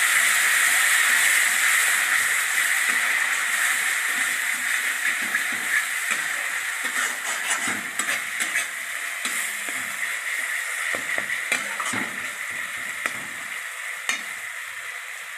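Tomato paste frying in hot oil in a steel kadai, sizzling while a flat steel spatula stirs it and scrapes against the pan. The sizzle is loud at first and slowly dies down as the paste cooks in. Short scrapes and clicks from the spatula come more often in the second half.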